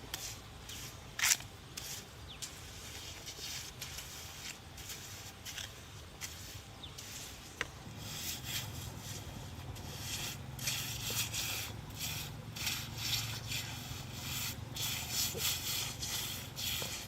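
Repeated rubbing or scraping strokes, a few a second, growing steadier and louder about halfway through, with scattered sharp knocks in the first half.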